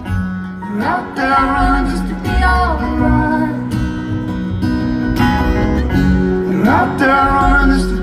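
Live acoustic band playing an instrumental passage with acoustic guitar to the fore. A sliding note rises about a second in and again near the end.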